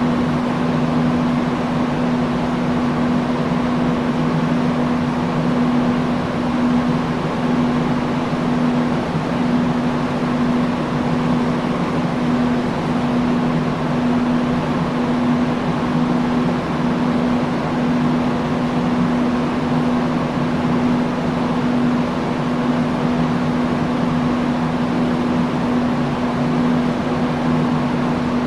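Industrial fan running steadily: a constant rush of air with a steady low hum from its motor.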